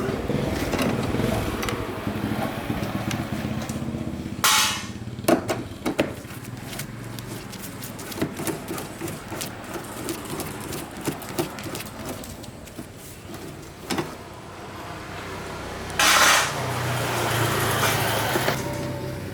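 A small motorbike engine running, heard in two stretches near the start and near the end, with short loud bursts of hiss and scattered knocks and clatter in between.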